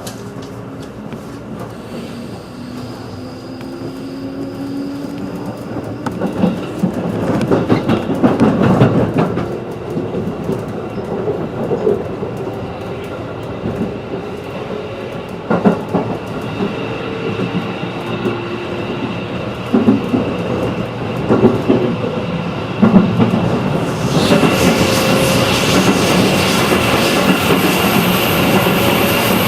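JR 211-series electric train running and gathering speed, heard from inside the carriage: a rising motor whine, wheels clacking and knocking over rail joints, and running noise that grows louder, stepping up about 24 seconds in.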